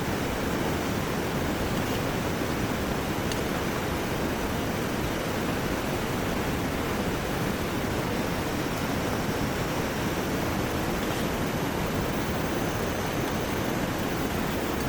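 Steady rushing noise of heavy rain and flowing river water, unbroken and even in level, with a faint tick or two in it.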